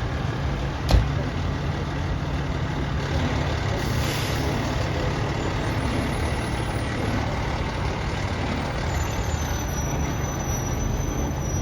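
Heavy diesel truck engine idling steadily. There is a sharp knock about a second in and a short hiss around four seconds.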